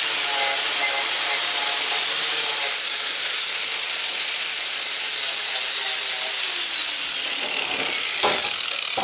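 Small electric blower running, a rush of air with a thin high motor whine. About six seconds in it is switched off: the whine falls steadily in pitch as the motor spins down and the air hiss fades.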